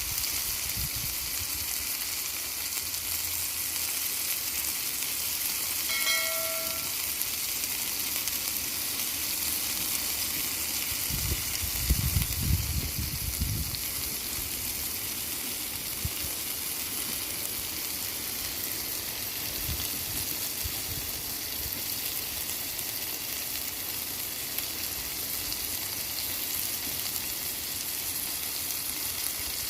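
Food sizzling as it fries in a pan, a steady hiss throughout. About six seconds in there is a short ringing tone, and around twelve seconds in there are a few low thumps.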